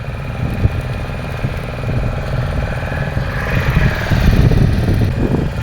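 Fishing boat's engine running steadily with a low, throbbing drone, and a louder rushing swell of noise about three seconds in.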